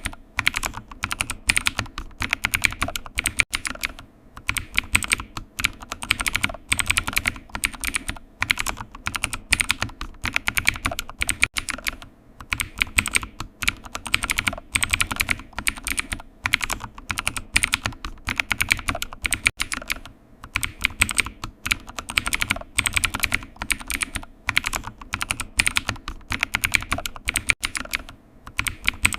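Computer keyboard typing: a quick, steady run of key clicks, broken by short pauses every few seconds.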